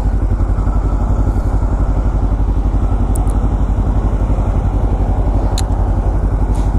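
Motorcycle engine running steadily while riding, with an even, rapid pulsing throb.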